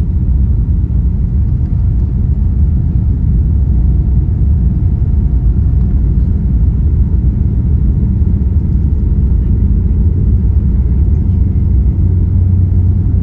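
Steady low rumble inside the cabin of a Boeing 787-9 airliner under way: engine and airflow noise, with a faint steady hum above it.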